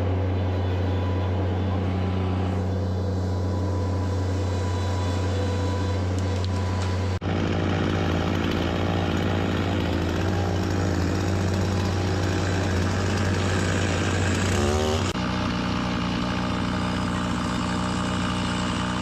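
Skid-steer loader's engine running steadily under load, its note changing abruptly about seven seconds in and again near fifteen seconds.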